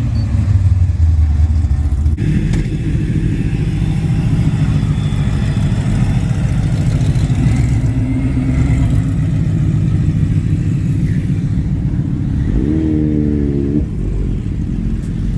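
A car engine running loud and low at idle, with an even pulsing rumble that changes pitch about two seconds in. Near the end a short pitched sound rises briefly over it.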